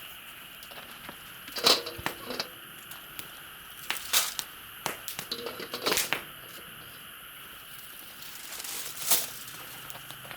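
Scattered sharp crackles and crunches, loudest about two seconds in, with others near four, six and nine seconds, over a steady high chirring of insects.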